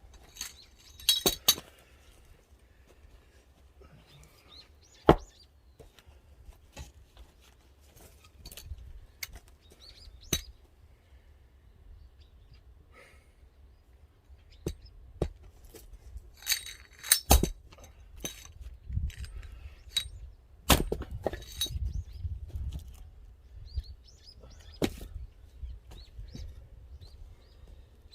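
Axe splitting firewood: sharp strikes on wood at irregular intervals of a few seconds, some coming in quick clusters as split pieces knock and clatter.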